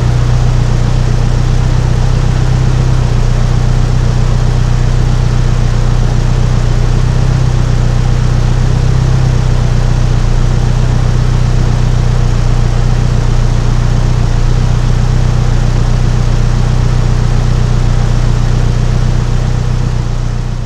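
Proton Perdana's turbocharged Mitsubishi Evo 2 four-cylinder (4G63) engine idling steadily through a 2.5-inch straight-pipe exhaust with a 3-inch muffler, with a deep, even drone.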